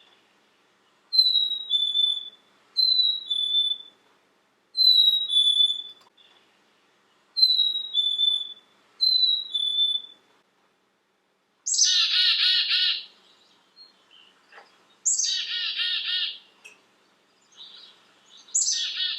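Chickadee singing its clear two-note whistled song five times, a higher note dropping to a lower one. It then gives three buzzy chick-a-dee-dee calls of rapid repeated notes.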